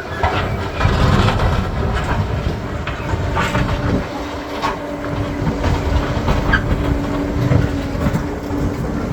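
Crawler bulldozer working over rocky ground: its diesel engine runs steadily under load while the steel tracks clank and stones knock and scrape against the machine, in irregular sharp clatters.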